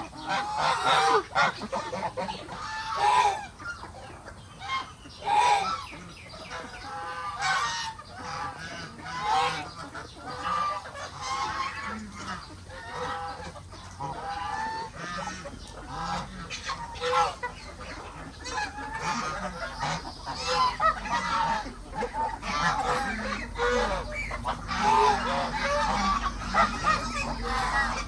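A flock of farm geese honking over and over, mixed with chickens clucking, a constant jumble of short overlapping calls. A low steady hum joins in about halfway through.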